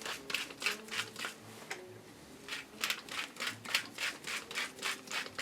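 Pepper mill grinding black pepper in a quick run of short grinding strokes, about five a second, pausing briefly around the middle before going on.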